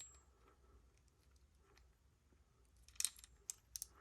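Faint quiet with a few sharp small clicks and taps: one at the start, then a short cluster about three seconds in and two more near the end. These are small hand tools and fuel injector parts being handled.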